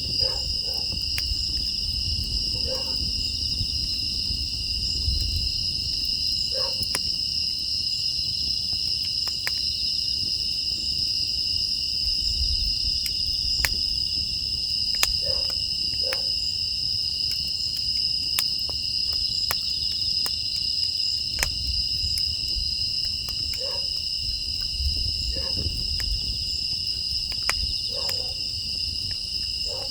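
Crickets chirring steadily in a high, continuous chorus, over a wood fire crackling with scattered sharp pops and a low rumble.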